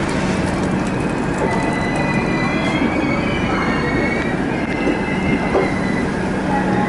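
Rajdhani Express passenger train running on the rails with a steady rumble and a low hum, its wheels squealing against the rail in several thin, wavering high tones through the middle.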